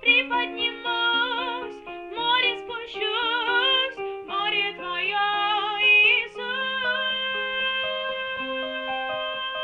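A woman singing a slow worship song with vibrato over a keyboard accompaniment, then moving into long, steady held notes for the last few seconds.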